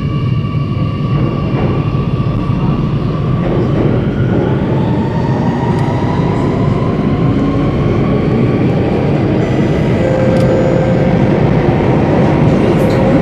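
Singapore MRT Circle Line train running through a tunnel: a steady, loud rumble of wheels and running gear, with a traction-motor whine climbing slowly in pitch as the train picks up speed.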